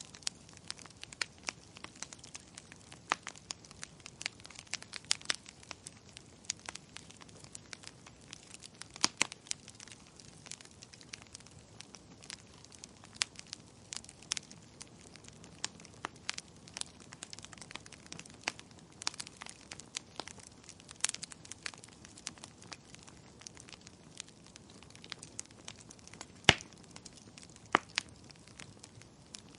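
Wood fire crackling in a fireplace: irregular sharp pops and snaps over a soft steady hiss, with a few louder pops.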